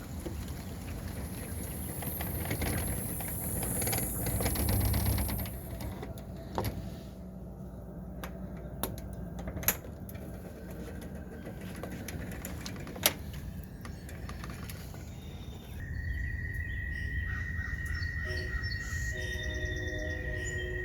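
Rain falling for the first several seconds, then dying away, with a few sharp clicks. About three-quarters of the way in, a steady high-pitched call starts and holds, with short low chirps beneath it.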